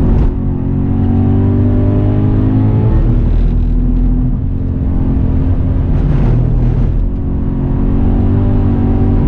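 Subaru BRZ's flat-four engine heard from inside the cabin, running hard on track, with brief dips in level a few times as the engine note changes, and a short hiss about six seconds in.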